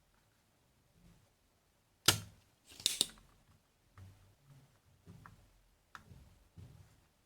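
Sharp snaps and clicks of small hand tools on a receiver's circuit board during a diode replacement: two loud snaps about two and three seconds in, then softer clicks and knocks.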